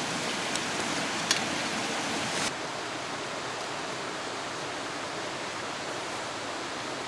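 Steady rush of a mountain valley stream flowing over rocks, an even hiss of water, with two light clicks in the first second or so and the level stepping down slightly about two and a half seconds in.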